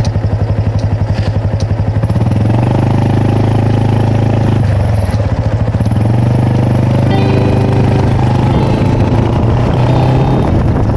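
Honda Super Cub's single-cylinder four-stroke engine, first running with a pulsing beat, then revving up about two seconds in to a steady running note. The note dips briefly about halfway and then picks up again.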